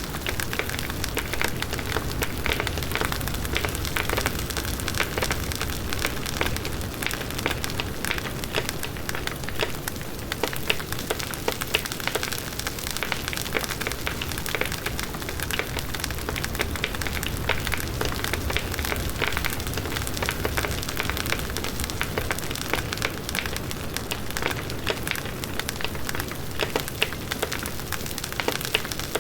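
Large wood bonfire burning steadily: dense crackling and popping of the burning wood over a low rushing of the flames, with wind.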